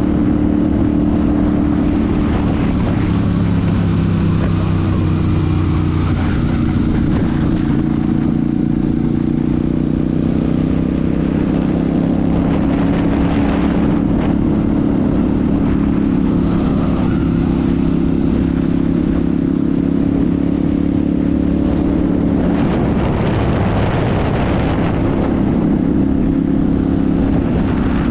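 Royal Enfield Super Meteor 650's 648 cc parallel-twin engine and exhaust running steadily under way on a ride, its pitch shifting slightly as the throttle changes.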